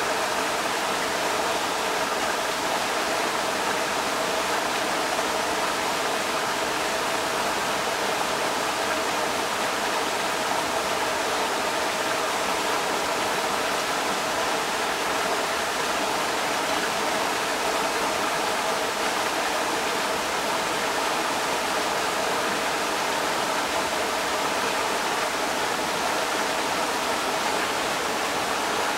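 Creek water rushing steadily, an even, unbroken wash of running water.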